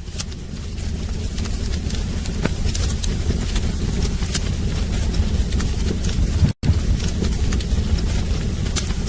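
Wood fire burning in a fireplace: a steady low rumble with scattered sharp crackles and pops from the burning logs. It fades up over the first second and cuts out for an instant about six and a half seconds in.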